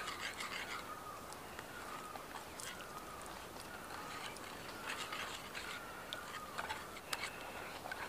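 Faint wavering bird calls, repeated several times over a steady low hiss, with a few light clicks near the end.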